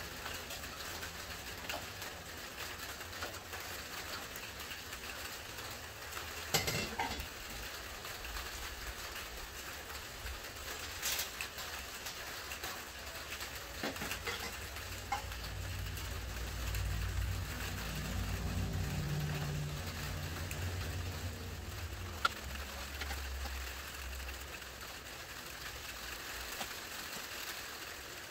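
Steady rain hiss with a few sharp knocks from handling parts on the van's roof. A low rumble swells up about halfway through and fades out again.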